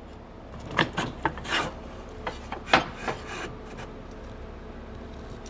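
Cleanout door being fitted back into an air cart's meter housing: several sharp clicks and short scraping rubs of parts sliding against the housing over the first three seconds, then only a low background hum.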